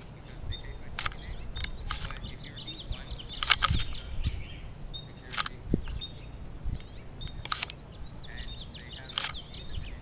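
Birds chirping in many short, high calls and trills, over a steady low rumble.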